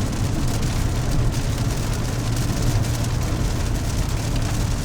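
Car driving on a wet road in the rain, heard from inside the cabin: a steady low rumble of engine and tyres with an even hiss from the wet surface.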